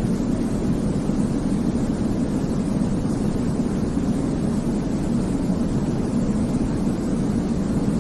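Steady sleep-aid white noise for babies: an even, unbroken hiss weighted toward the low end, deep rather than bright.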